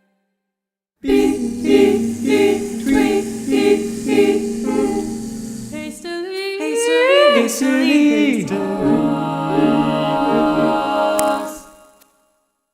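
A cappella choir singing a contemporary piece: voices pulse on repeated notes about twice a second over a held low note, then slide up and down in pitch, and settle on a held chord that fades away near the end.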